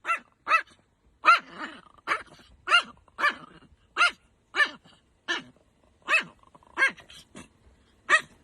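Angry Chihuahua barking over and over: about a dozen short, high-pitched barks, each falling in pitch, roughly two a second.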